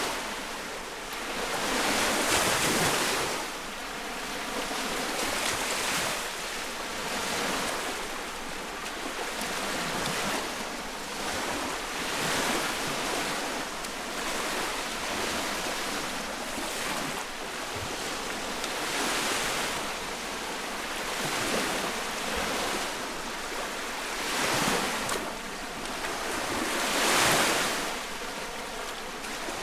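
Small lake waves breaking and washing on the shore, recorded close. Each wave swells and recedes every couple of seconds, a few of them louder splashes, over a steady wash of water.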